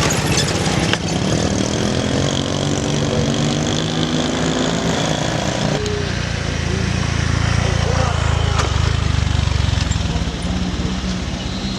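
Vehicle engines labouring up a steep hill: one engine's pitch climbs steadily from about a second in until it cuts off near the middle, then a deeper engine grows louder.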